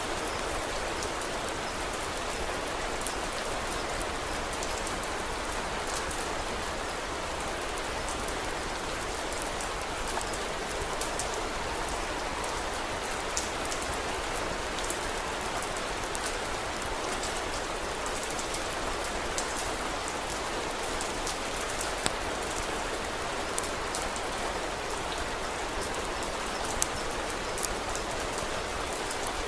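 Steady rain falling, with a wood fire's scattered sharp crackles and pops on top, a couple of louder pops in the second half.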